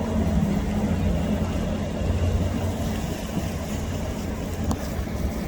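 Motorboat engines running with a steady low drone as a boat goes through the inlet, slowly fading toward the end, over wind and surf noise.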